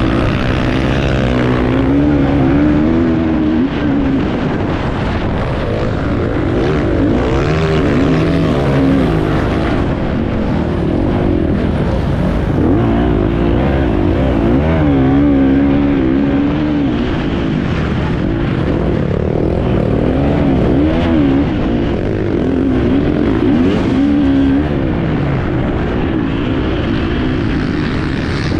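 Enduro motorcycle engine running hard on an off-road course, its revs climbing and dropping again and again as the throttle is worked, over a constant rush of noise.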